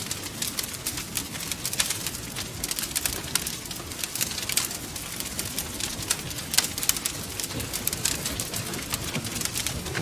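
Wood fire burning in a fireplace, with many irregular sharp crackles and pops over a low steady rumble.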